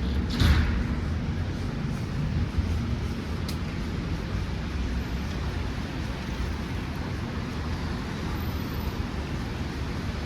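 Steady low rumble of city street traffic, with a brief louder whoosh about half a second in.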